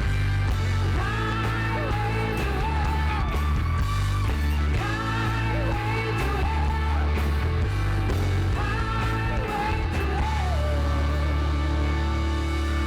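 Live rock band playing, a singer holding long wavering notes in phrases over electric guitar, bass and drums.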